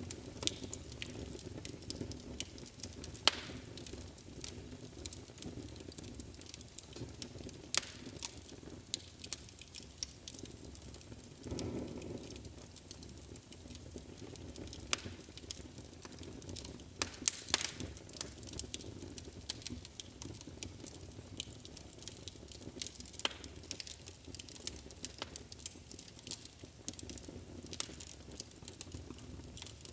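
Wood fire burning in a fireplace: a steady low rumble of flames with irregular crackles and sharper pops from the burning wood, and a brief louder flare of the flames about twelve seconds in.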